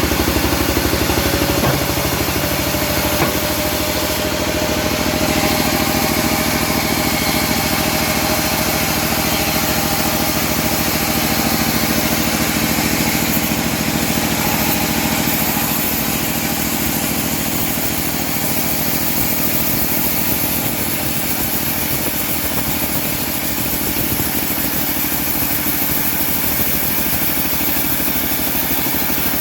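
Homemade engine-driven bandsaw mill running steadily, with a faint whine that glides in pitch during the first few seconds.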